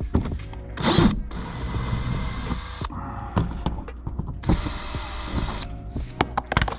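Cordless drill being handled while its Torx bit is swapped: clicking and rattling of the chuck and bit, with two short louder rushes of noise about a second in and about five seconds in.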